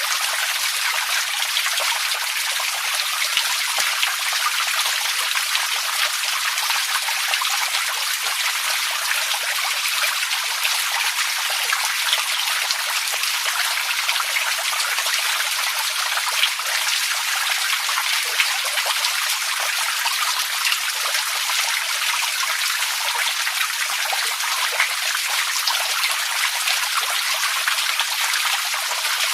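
Running water trickling and splashing steadily, a continuous hiss with fine splashy detail and no change.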